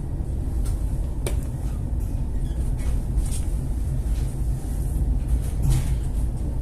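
Steady low rumble aboard a ship, likely its engine and hull, with a few sharp clicks and knocks, the clearest about a second in and near the end.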